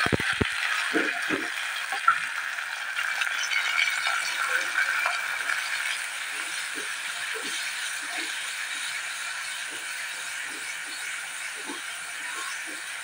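Crushed garlic, chopped shallots and curry leaves sizzling in hot coconut oil in a clay pot, stirred with a wooden spatula that scrapes and taps against the pot. The sizzle slowly dies down, with a sharp tap about two seconds in.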